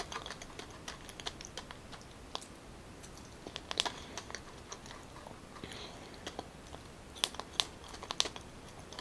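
A person chewing soft boiled purple yam, with wet mouth clicks and smacks at irregular moments. The sharpest clicks come about four seconds in and again a little after seven seconds.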